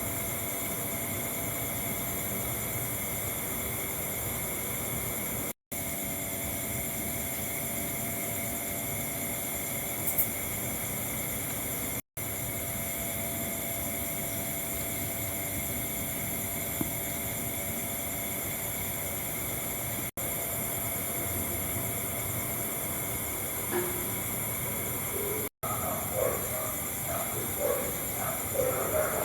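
Chicken deep-frying in hot oil, a steady sizzling hiss broken off abruptly four times. Faint voices join in near the end.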